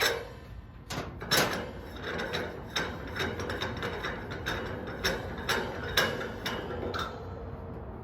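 Uneven run of sharp clicks and knocks, about two a second, from equipment being handled, over a low steady hum.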